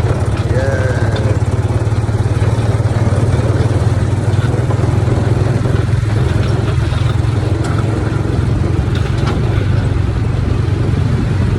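Small gasoline engine of a Tomorrowland Speedway ride car running steadily while driving along the track.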